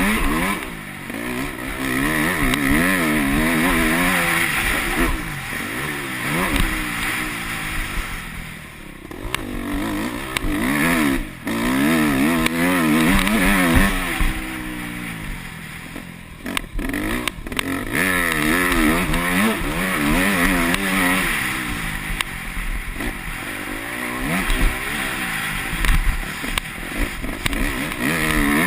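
Yamaha YZ250F four-stroke motocross bike engine revving hard on the throttle, its pitch rising and falling again and again through the gears. It eases off twice, about a third of the way in and again past the middle.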